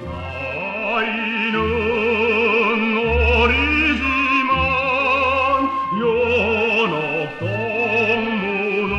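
Music: an operatic-style singing voice with wide vibrato over instrumental accompaniment, with low bass notes changing about once a second.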